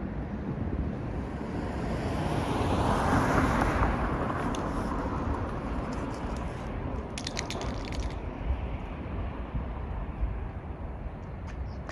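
A vehicle passing on the highway at night, swelling to its loudest about three seconds in and then fading, over a steady low rumble. A brief burst of rapid clicks about seven seconds in.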